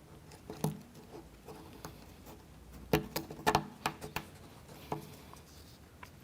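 Plywood model-kit parts clicking and tapping against each other as they are fitted together by hand into a wheel, a handful of light sharp clicks, the loudest about three seconds in.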